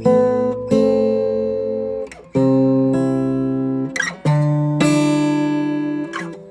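Acoustic guitar music: chords strummed and left to ring, with a new chord about every one to two seconds.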